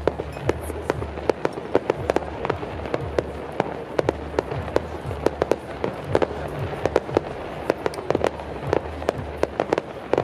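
Fireworks display going off: a rapid, uneven run of sharp bangs and pops, several a second.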